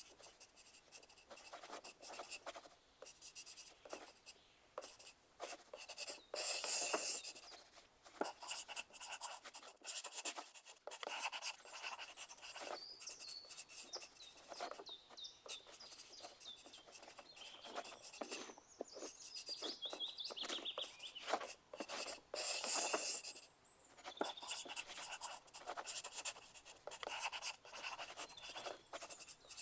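Pencil writing on paper: a steady run of quick, irregular scratchy strokes, with louder, longer stretches of scribbling about a quarter of the way in and again about three quarters of the way in.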